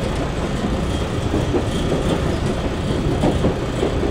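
Cabin noise inside a JR 113 series electric train running along the line: a steady noise of wheels and running gear, strongest in the low range.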